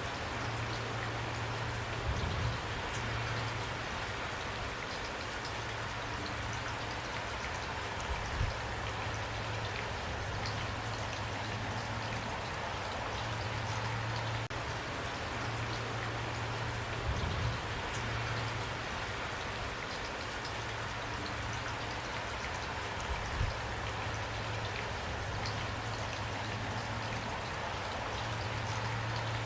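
Steady rain falling, an even hiss with a few brief low thumps.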